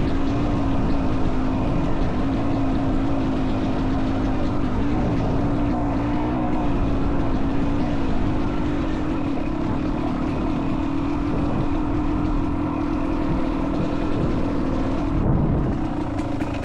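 Dirt bike engine running continuously under changing throttle, its pitch wavering up and down a little, with a brief surge near the end.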